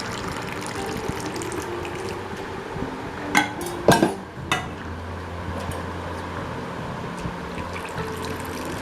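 Hot chocolate coffee poured into a glass so that it froths as it fills, a steady liquid pour. A few sharp clinks come about three to four and a half seconds in.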